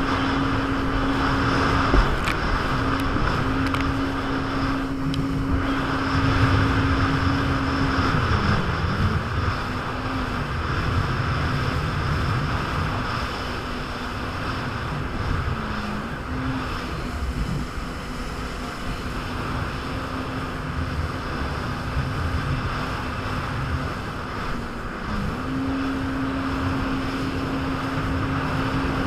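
Jet ski engine running steadily at speed over rushing water and wind noise. Its pitch dips briefly three times and then comes back up.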